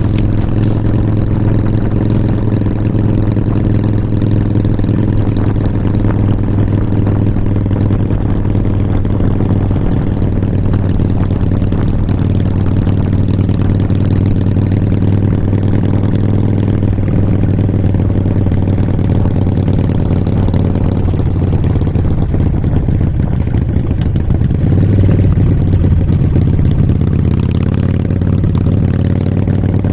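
Motorcycle engine running at a steady, even speed while riding, getting a little louder and higher about 25 seconds in.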